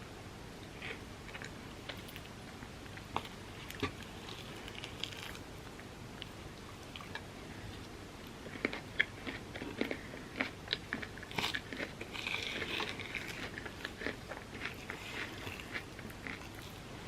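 Close-miked chewing and crunching of a mouthful of overnight oats with a crisp set-chocolate and pistachio kataifi topping. It is a scatter of small crunches and mouth clicks, thickest from about halfway through to three-quarters of the way in.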